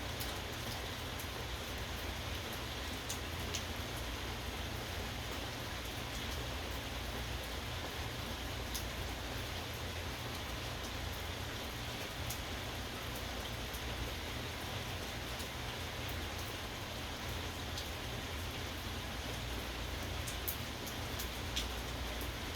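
Steady rain falling, with scattered faint drop ticks over an even hiss and a low steady rumble underneath.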